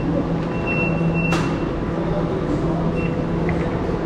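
Elizabeth line Class 345 train running: a steady rumble with a low motor hum, and a brief thin high squeal about a second in that ends in a short click.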